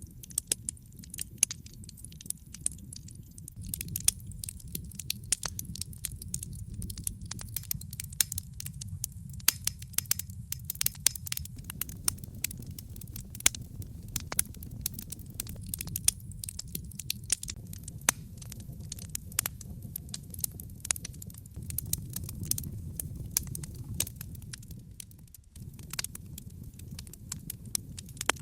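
Wood fire burning in a fireplace: burning logs crackling with frequent irregular sharp pops over a low steady rumble, briefly quieter about 25 seconds in.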